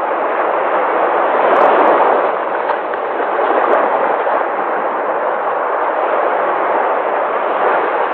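Sea waves breaking and washing in, a continuous rushing surf that swells and eases every few seconds.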